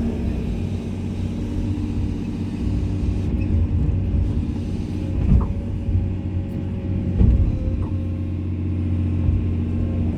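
Komatsu excavator's diesel engine running steadily, with two louder knocks about two seconds apart midway through.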